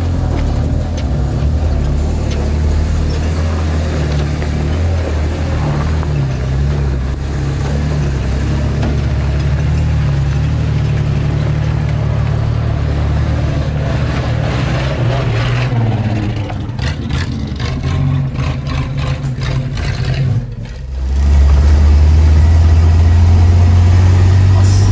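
Chevrolet Veraneio 4x4's engine running as it drives a dirt trail, its pitch stepping up and down, with a run of clicks and rattles about two-thirds of the way in. After a brief drop near the end, the engine comes in louder as a steady low drone heard from on board.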